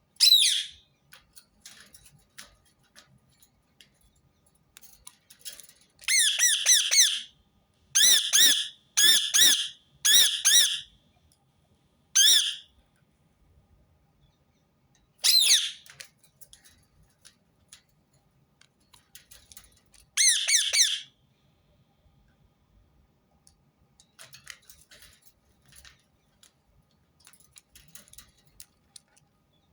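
Rose-ringed parakeet giving short, harsh screeching calls: one at the start, a run of four between about 6 and 11 seconds, then single calls near 12, 15 and 20 seconds, with faint chatter in between.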